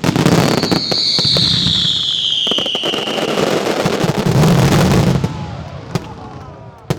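Fireworks going off in a dense volley of bangs and crackling, with a loud whistle falling in pitch over about three seconds. The barrage fades after about five seconds, followed by two last single bangs near the end.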